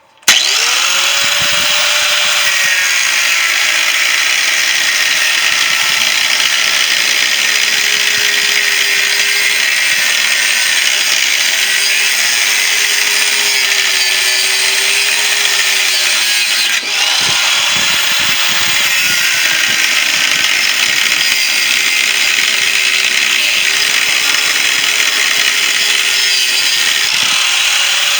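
Power tool running continuously as it cuts into the metal shell of a refrigerator compressor, its motor pitch sagging and recovering under the load of the cut, with a brief let-up about two-thirds of the way through.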